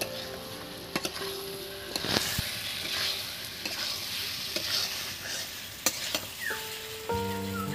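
Potatoes and potol (pointed gourd) sizzling in spiced masala in a pan as they are stir-fried (kasha), with scrapes and sharp clicks of the stirring utensil against the pan. Background music comes back in about seven seconds in.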